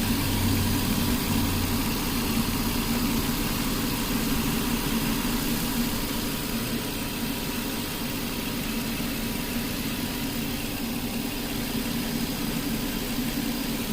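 The 2010 Nissan Pathfinder's 4.0-litre V6 idling steadily, an even hum with no changes.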